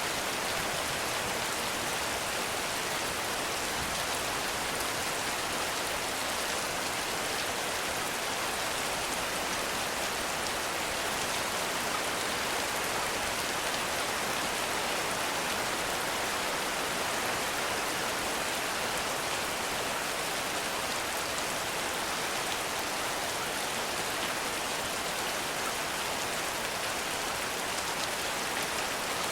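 Heavy rain falling steadily, an even dense hiss of drops with no thunder or other events.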